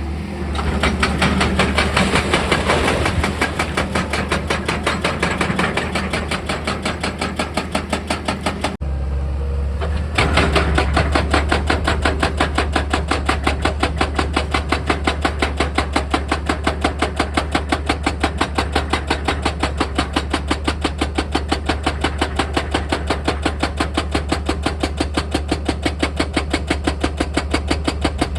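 Excavator engine humming steadily under a hydraulic rock drill that hammers in rapid, even strokes several times a second. The hammering stops for about a second roughly a third of the way in, then picks up again and runs steadily.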